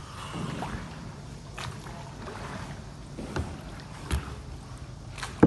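Several sharp knocks, a second or two apart, over a steady background of water and motion noise, from a small boat on the water.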